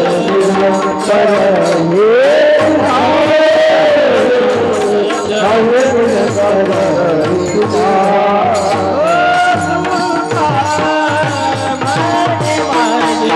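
Devotional bhajan music from a Warkari kirtan. A singer draws out long notes that slide up and down between the words, over drum and a steady beat of jingling percussion strikes.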